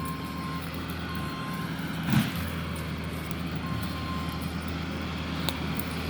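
An engine runs steadily with a low hum. Three short, high, even beeps sound in the first few seconds, and a single thump comes about two seconds in.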